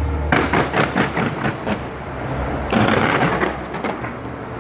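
Fireworks fired from the sides of a skyscraper going off: a rapid crackle of many sharp bangs starting a fraction of a second in, then a denser, louder burst about three seconds in.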